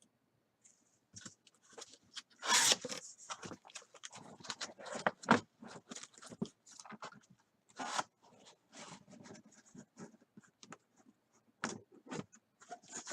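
Cardboard shipping case being torn open and emptied of its sealed hobby boxes: irregular tearing, scraping and knocking of cardboard, the loudest about two and a half seconds in.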